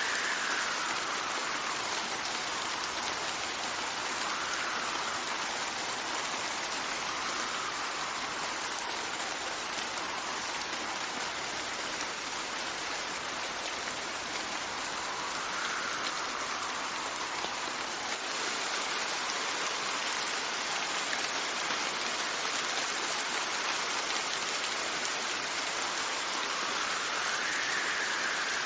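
Steady rain falling, with wind gusts that swell and fade every few seconds.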